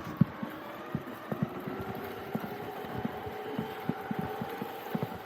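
Radio-control crawler truck's brushless electric motor running with a faint steady whine, under irregular soft knocks.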